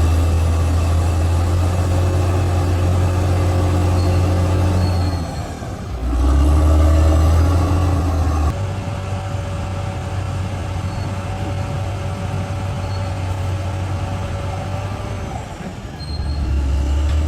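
Bulldozer's diesel engine working under changing load. It dips briefly about five seconds in, pulls harder for a couple of seconds, eases off, then picks up again near the end, with a few brief high squeaks.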